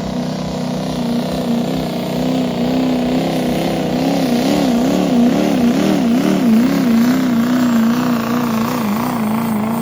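2.6 Pro Street diesel pickup truck engine held at high revs under full load while pulling the sled. The pitch holds steady, then wavers up and down about twice a second for several seconds before settling again.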